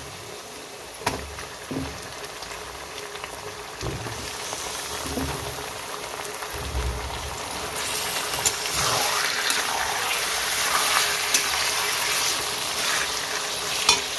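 Raw chicken pieces going into hot oil and golden fried onions in a kadai, sizzling. The sizzle grows louder about halfway through, with a few sharp knocks along the way.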